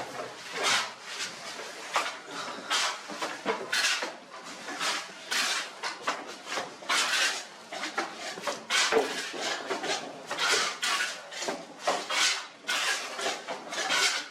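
Steel hand tools scraping wet cement mortar on brick and in a mixing pan: a steady run of short, irregular scrapes and taps, one or two a second.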